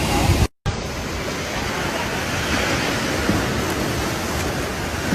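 Steady rushing noise, like water or wind on the microphone, broken by a brief total dropout about half a second in.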